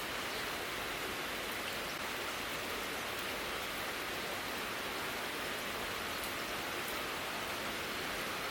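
Heavy rain falling in a downpour: a steady, even hiss with faint scattered drop ticks.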